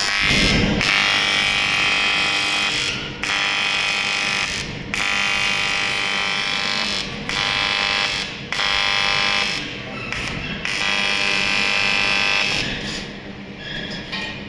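Aluminium TIG welding arc from a Fair-Arc welder, buzzing on AC. It comes in about six runs of one to three seconds each, broken by short pauses as the arc is stopped and struck again.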